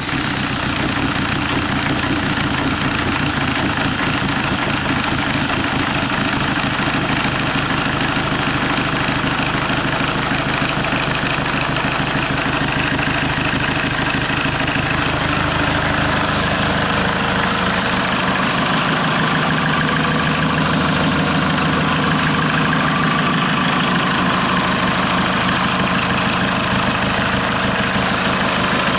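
Hyundai/Kia D4CB 2.5-litre four-cylinder common-rail turbodiesel idling steadily after being started, with typical diesel clatter.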